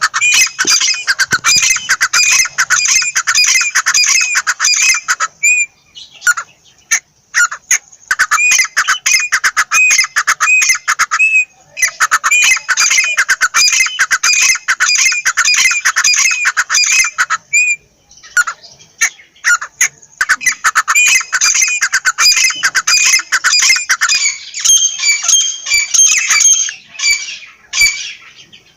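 Francolin (teetar) calling: long runs of rapid, shrill repeated notes, broken by short pauses every few seconds.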